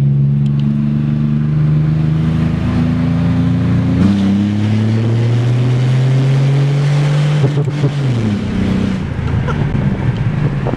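Pontiac Grand Am V6 engine running loud through an opened-up exhaust with the catalytic converter still in place, pulling under acceleration. Its pitch shifts about four seconds in, climbs steadily, then falls away after about eight seconds as the throttle comes off.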